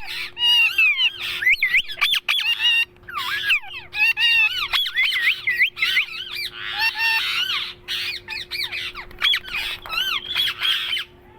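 Indian ringneck parrot chattering and squawking in quick, high, warbling calls that slide up and down in pitch, with short breaks between runs.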